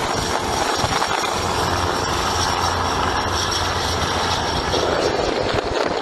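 Steady helicopter engine and rotor noise.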